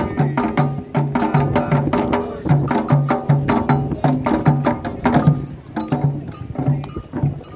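Candomblé toque: atabaque hand drums keeping a steady rhythm of low strokes, about three a second, under sharp high strikes from wood or bell percussion. The high strikes thin out about five seconds in.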